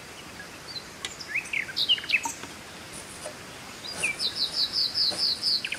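Birds calling: a few short high chirps, then a fast trill of about eight quick repeated high notes near the end.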